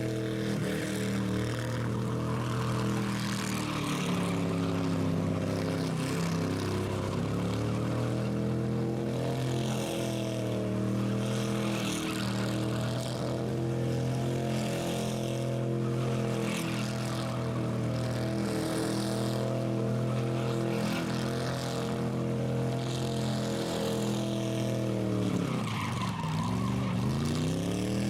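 Rat rod engine held at high revs during a burnout, the spinning rear tyres hissing and squealing on the pad. The revs sag briefly about five seconds in, then drop sharply near the end and climb back.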